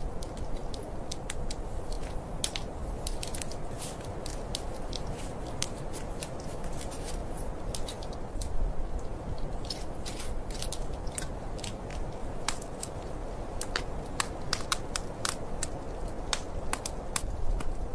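Wood fire crackling: irregular sharp pops and snaps, thicker in the middle and near the end, over a steady low rush of noise.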